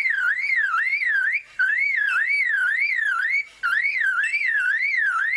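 Superb lyrebird mimicking a car alarm: a loud whistled tone sweeping up and down, about three sweeps a second, in three phrases with short breaks about a second and a half and three and a half seconds in.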